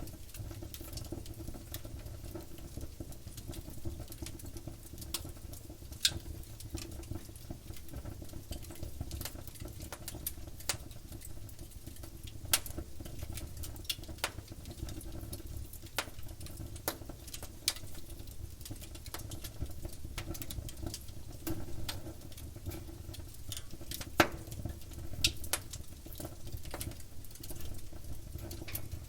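Wood campfire burning and crackling: a constant fine crackle with irregular sharp pops, a few louder than the rest, over a low steady rumble of the flames.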